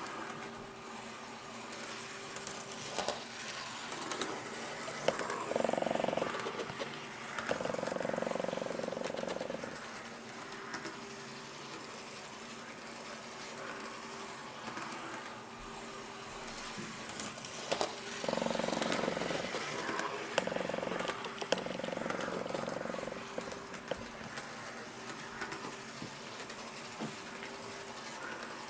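N-scale model TGK2 diesel shunter running on its track: the small electric motor and gearing hum steadily, with light clicks from the wheels. The hum swells louder twice, for a few seconds each time, as the locomotive passes close.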